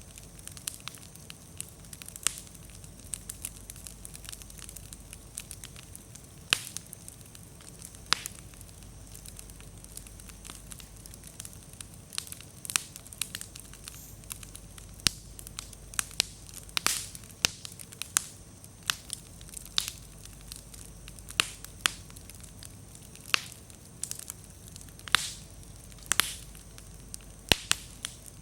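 Wood bonfire burning with a steady low rumble and irregular crackles and sharp pops, denser in the second half; the firewood is slightly damp, so it pops and throws many sparks.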